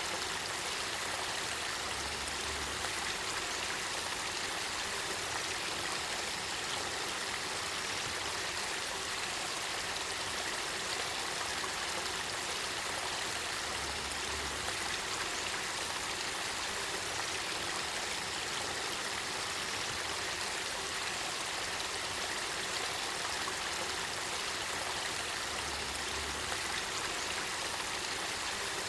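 Spring-fed river water flowing: a steady, even rush of stream water.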